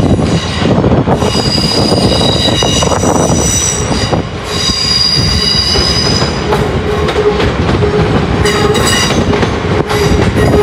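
Train moving through the station, its wheels squealing on curved track in high-pitched spells over a steady rumble.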